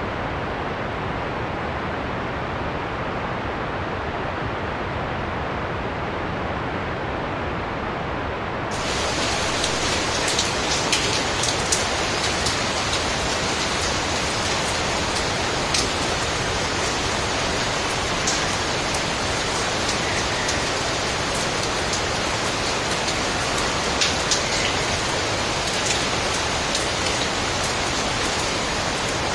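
Heavy storm rain as a steady rushing noise, dull and muffled for the first several seconds. About nine seconds in it switches abruptly to louder, brighter rain with scattered sharp ticks of individual drops striking.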